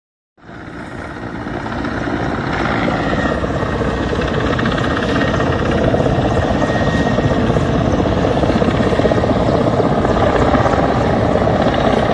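Helicopter rotor and engine noise, a dense fast chop that comes in about half a second in, grows louder over the next couple of seconds, holds steady, then cuts off abruptly.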